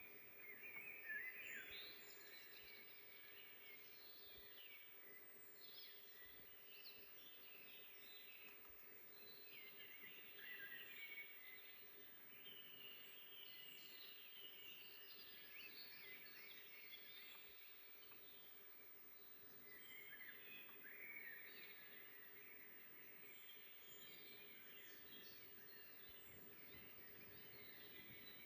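Faint forest dawn-chorus-style birdsong: many small songbirds chirping and trilling over one another without pause, over a faint steady hum.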